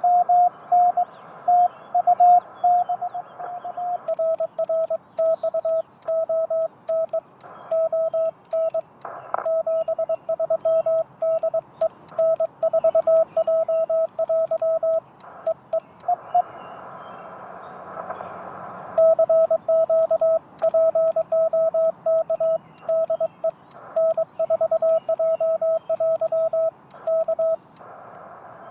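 Morse code (CW) from an amateur radio transceiver: a keyed tone near 700 Hz, its pitch shifting slightly about four seconds in, with faint sharp clicks alongside the keying from then on. The tones break off for a few seconds of steady band hiss a little past halfway, then resume.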